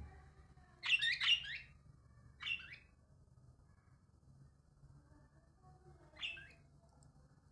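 A bird chirping in short calls: a quick burst of several chirps about a second in, a single short call soon after, and another near the end.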